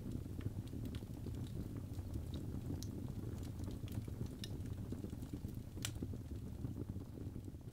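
Birch logs burning in a fireplace: scattered sharp crackles and pops over a steady low rumble of the flames, with one louder pop about six seconds in.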